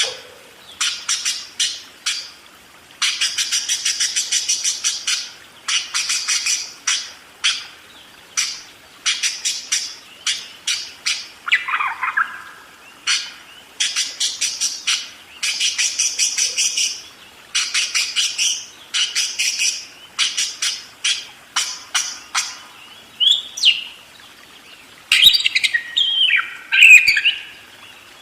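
Parakeet chattering in rapid trains of sharp, ticking chirps, repeated in bursts of a second or two with short pauses between. Near the end it breaks into louder warbling notes that slide up and down in pitch.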